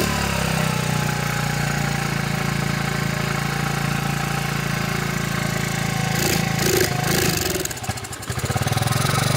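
Honda ATC 70's small four-stroke single-cylinder engine idling cold with the choke on. About eight seconds in it sags and falters briefly, then picks back up: it is just cold.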